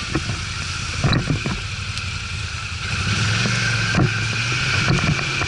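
ATV engine running steadily, its note getting louder about three seconds in, with a few short knocks and clatter over it.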